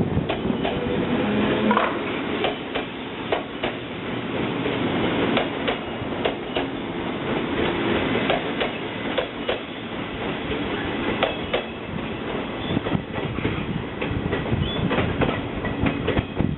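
Electric multiple-unit train, the 185 series, running past with a steady rumble. Its wheels click over the rail joints again and again throughout.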